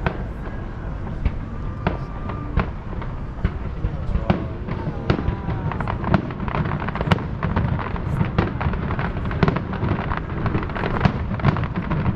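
Aerial fireworks going off in a rapid, irregular series of bangs and crackles that come closer together in the second half.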